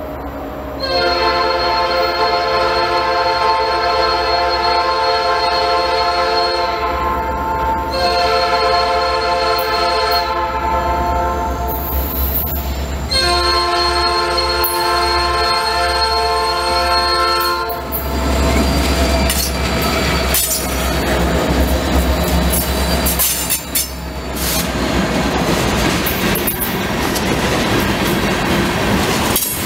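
Locomotive's multi-note air horn sounding three long blasts, then the train rolling past with rail clicks and some wheel squeal over a low engine rumble.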